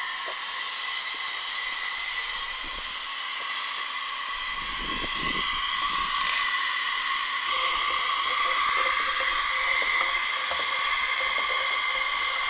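Steady, strong hiss of steam escaping from the Virginia steam locomotive, with a faint whistling tone in it and a brief low rumble about five seconds in.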